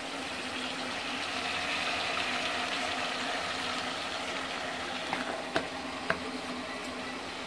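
Eggplant and onion frying steadily in an aluminium pot on a gas burner. A few short clicks about five to six seconds in come from a plastic spice container's lid being snapped shut.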